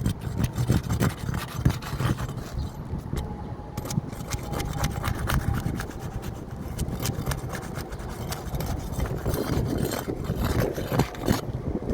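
Irregular scraping and small clicks of a tool working under old, brittle 3-tab asphalt shingles to break their seal and pull the nails, with gritty rubbing of the shingle surface.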